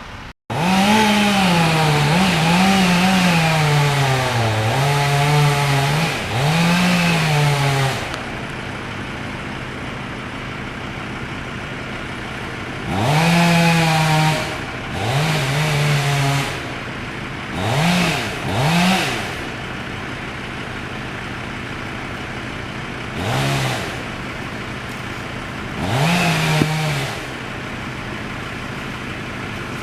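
Chainsaw revving in repeated bursts, its pitch dipping and rising as it bogs under load while cutting a large tree. A long run of cutting comes first, then shorter throttle bursts, over a steady engine hum.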